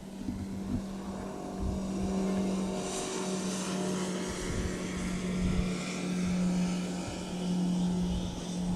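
Passing motorboats, their engines making a steady drone, with a rise of hiss about three seconds in.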